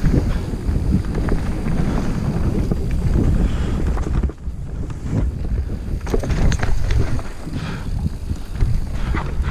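Wind buffeting the microphone of a bicycle rider moving fast down a rough trail, with the bike clattering and rattling over rocks, the rattles bunching about six seconds in and again near the end.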